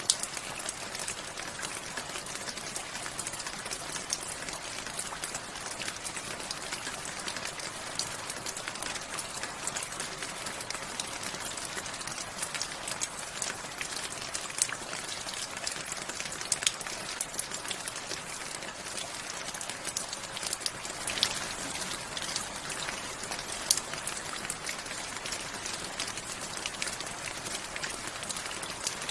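Steady rain with many distinct drops ticking and pattering on a surface, a dense hiss with frequent sharp drop hits.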